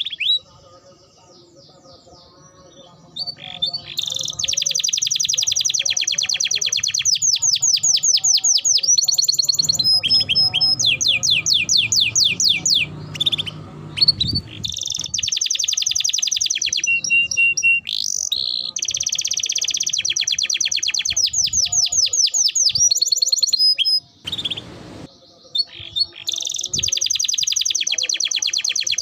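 Domestic canary singing long, fast trills of rapidly repeated high notes, chirps and rolls, with short breaks in the song about a second in and again near the end.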